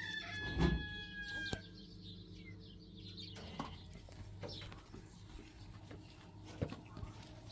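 Chickens clucking, with a long held call ending about a second and a half in, among scattered knocks.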